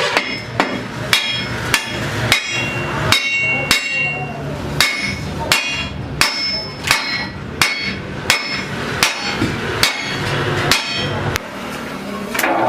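Hammer blows on a steel truck wheel rim, struck at a steady pace of about three blows every two seconds, each with a metallic ring. The blows stop near the end.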